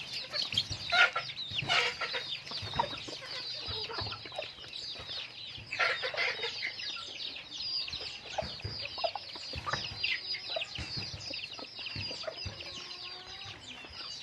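A flock of chickens clucking and calling continuously, many short high calls overlapping, with louder calls about a second in and again about six seconds in.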